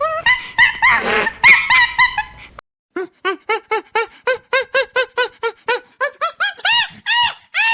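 Animal calls in two clips. First, high chirping calls that stop abruptly. After a short gap, a quick series of short yelping calls, about four a second, each rising and falling in pitch.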